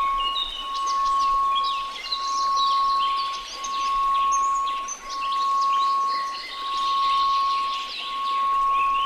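A steady pure tone of about 1098 Hz that swells and fades in slow pulses about every one and a half seconds, over a bed of many birds chirping and trilling.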